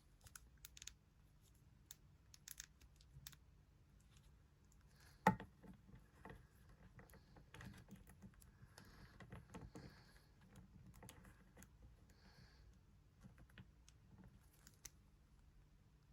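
Faint scattered clicks and taps from a small plastic toy figure being handled and set down, with one louder knock about five seconds in.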